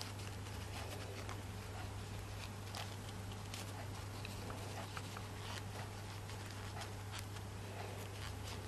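A low, steady electrical hum under scattered faint ticks and light taps, as of small craft materials being handled.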